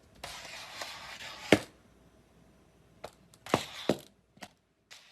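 A few sharp knocks and clicks, the first over a brief hiss, then several more in quick succession near the end.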